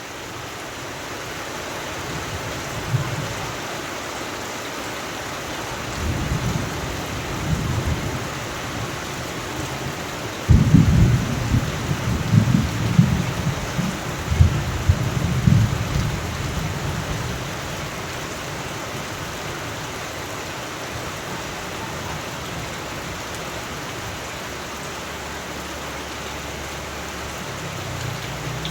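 Steady rain with thunder. Low rumbles start about six seconds in, a sudden loud clap comes about ten seconds in and rolls on in waves for several seconds, then fades back to the rain.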